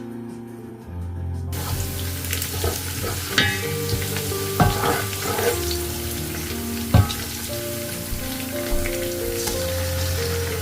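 Food frying in hot oil in a pan, starting to sizzle about a second and a half in, with a few sharp knocks of a utensil against the pan as it is stirred.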